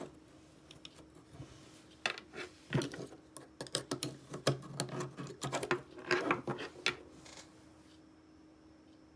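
Irregular small clicks and knocks of hard objects being handled, coming thickly for several seconds in the middle, over a faint steady hum.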